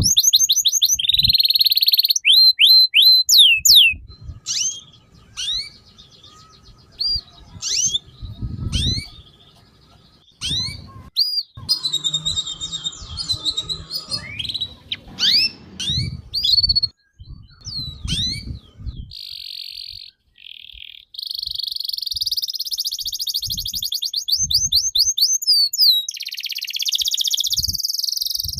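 A songbird singing at length in fast, varied phrases: rapid runs of high down-slurred notes, trills, and long buzzy stretches near the end, with a few low thuds underneath.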